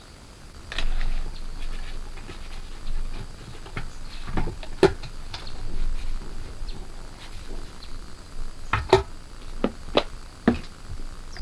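Irregular sharp knocks and clicks, loudest about five and nine seconds in, over a faint steady high-pitched tone.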